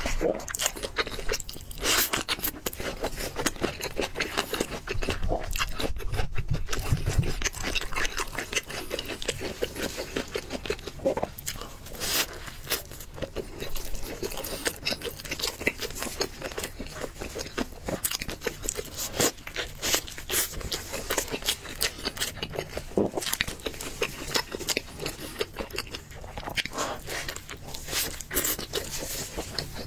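Close-miked eating: steady chewing and crunching, with bites into a fried chicken burger making a dense run of crisp clicks.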